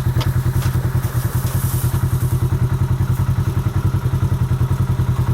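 Off-road vehicle engine idling steadily with an even, rapid throb.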